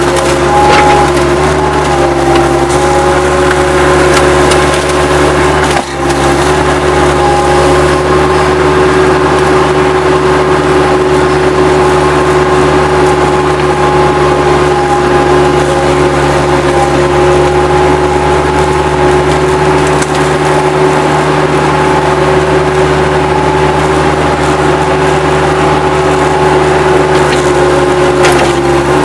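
Bobcat 763 skid-steer loader's diesel engine running steadily under load, while wood debris cracks and crunches as it is moved. The engine sound dips briefly about six seconds in.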